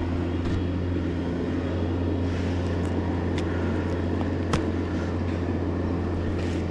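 An engine running steadily at one speed, with a low, even hum, and a few sharp clicks over it about three and a half and four and a half seconds in.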